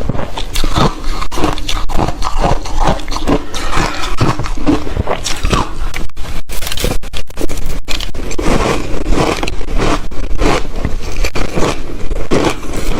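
Ice being bitten and chewed close to the microphone: a dense, continuous run of crunches and cracks, broken by a few brief gaps about halfway through.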